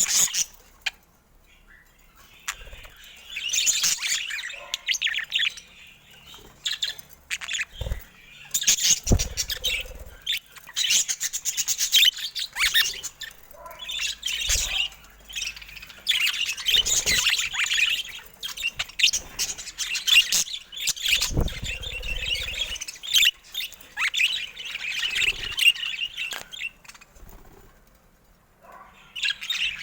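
Budgerigars chattering and squawking in bouts of fast warbling several seconds long, with short pauses between. A few sharp clicks and low thumps break in.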